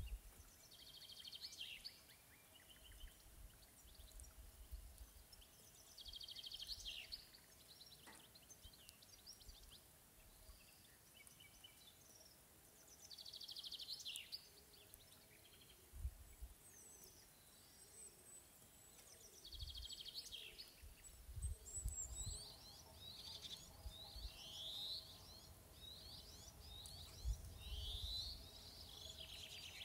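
Songbirds singing in short, scattered chirping phrases over a faint outdoor background, more often in the last third. Low rumbles come and go now and then.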